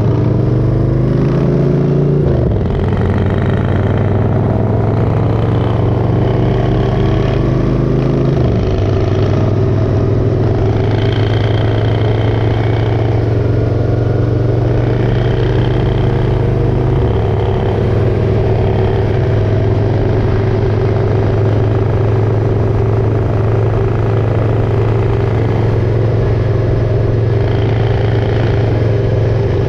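Motorcycle engine running under way, its pitch climbing and then dropping sharply about two seconds in and again about eight seconds in as it shifts up, then holding a steady cruising note.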